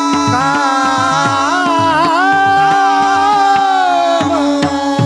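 Male devotional kirtan singing: one voice holding a long, ornamented melodic line that ends about four seconds in. Under it are a steady held drone note and the regular strokes of a hand drum.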